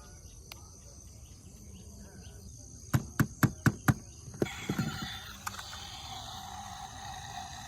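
A quick run of five sharp knocks about a quarter second apart, then a few softer ones, over a steady background hiss.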